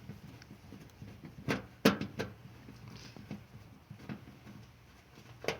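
A few sharp clicks and knocks as the washing machine's door lock assembly is handled and worked loose, over a faint steady hum. Three come close together about a second and a half in, and one comes near the end.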